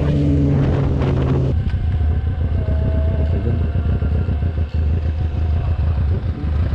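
Yamaha R6 (2003) 600cc inline-four motorcycle engine, running at moderate revs and easing off for about a second and a half. It then drops abruptly to a low, steady rumble.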